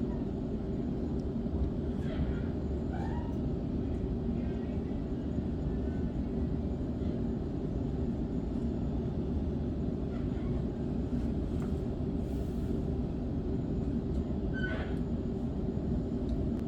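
Suburban electric train in motion, heard from on board: a steady low rumble of wheels on the track, with a few faint brief squeaks.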